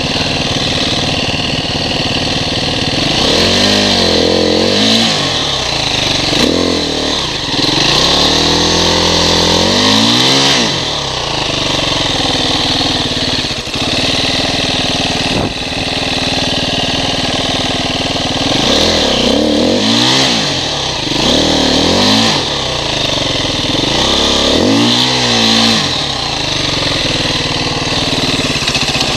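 KTM dirt bike engine revved hard in repeated bursts, the pitch climbing and dropping again, with a steadier lower engine note between the bursts.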